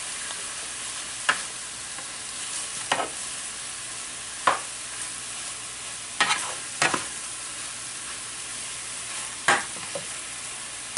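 Strips of beef sizzling steadily in hot olive oil in a frying pan, searing on high heat. About six short, sharp scraping strikes of a cooking utensil against the pan cut through the sizzle as the meat is stirred.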